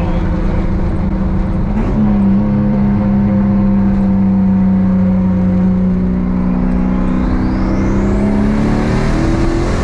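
Turbocharged Camaro SS V8 accelerating hard, heard from inside the cabin. The engine note drops at a gear change about two seconds in, then climbs steadily. A rising turbo whistle comes in during the last few seconds.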